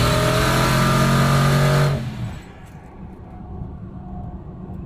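Turbocharged 6.0 L LQ4 V8 pickup under boost, twin GT35 turbos with 50 mm external wastegates, pulling hard with a loud rushing hiss from the wastegates opening. About two seconds in the throttle is lifted and it drops to a low, steady cruising rumble.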